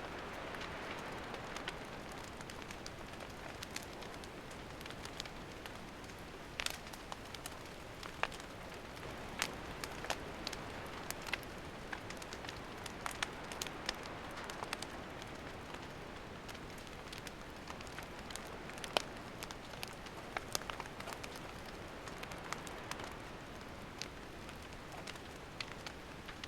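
Wood campfire burning: a steady hiss of flames with sharp crackles and pops of the firewood scattered irregularly throughout.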